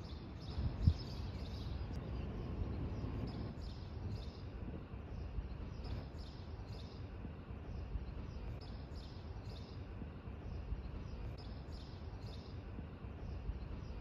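A small bird chirping over and over, short high chirps about two to three a second, over a steady low outdoor rumble.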